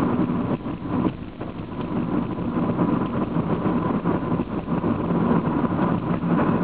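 Honda car's engine and tyre noise heard from inside the cabin while driving along, a steady low drone with a faint steady whine.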